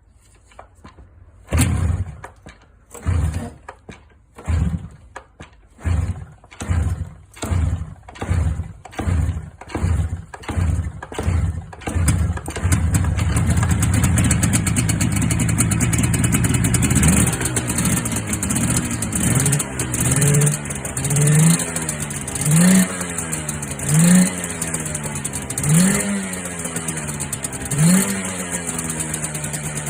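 Yamaha RZ350 two-stroke parallel-twin engine in an RZ250RR catching in uneven bursts that come faster and faster, then running. It is revved in short throttle blips about every two seconds, then settles to a steady idle near the end.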